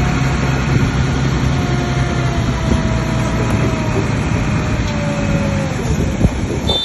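Bulldozer's heavy diesel engine running steadily, with a whining tone that slowly falls in pitch through the middle.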